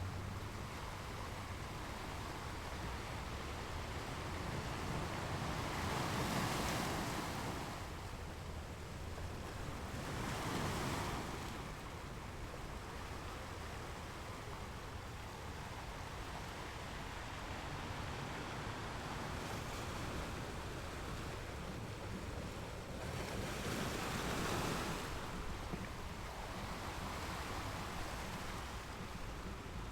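Ocean waves breaking and washing in over a steady low rumble of surf, with three louder breaks about six, ten and twenty-four seconds in.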